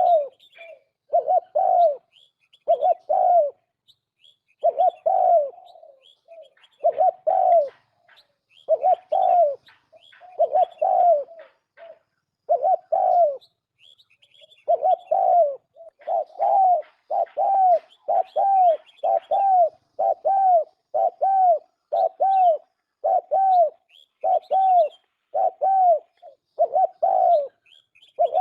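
Turtle dove cooing, repeated short coos in phrases with brief pauses, settling into a steady run of coos about every half second in the second half. Faint high chirps of smaller birds sit behind it.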